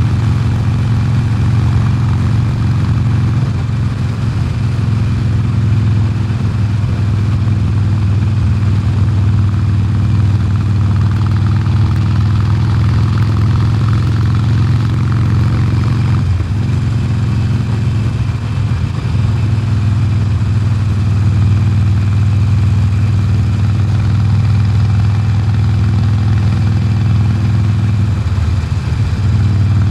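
2020 Harley-Davidson Sportster Forty-Eight's air-cooled V-twin running on its stock exhaust while being ridden, a steady, loud low engine note. The note briefly changes about halfway through and again near the end.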